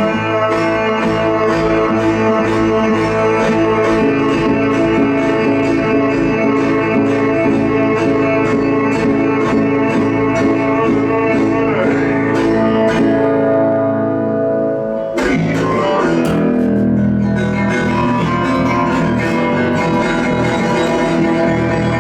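Instrumental stretch of a song on plucked strings, guitar with an electric bass under it, playing steadily; the music breaks off for a moment about two-thirds of the way through and then goes on.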